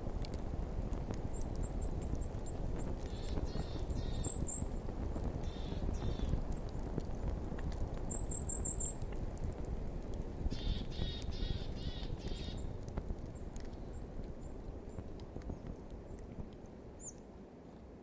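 Woodland ambience: small birds give short series of high-pitched chirps several times, along with a few pulsed calls, over a steady low rumble of wind and faint scattered clicks.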